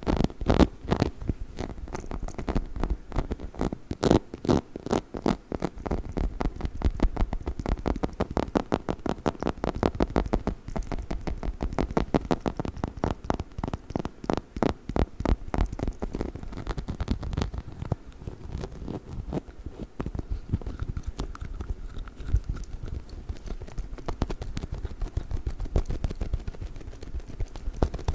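Fast tapping and scratching on a chicken-shaped dog toy held close to the microphone, a dense, uneven run of many small taps a second with a slightly lighter stretch in the second half.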